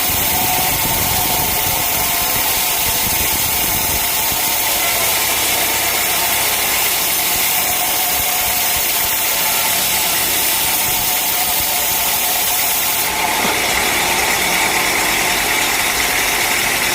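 Sawmill machinery running steadily and loudly, with a shift in its sound about thirteen seconds in.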